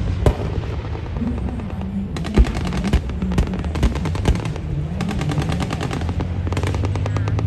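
Machine guns in sustained automatic fire. A few scattered shots come first, then a long rapid burst starts about two seconds in, and after a brief pause near the middle a second long burst follows, all over a steady low hum.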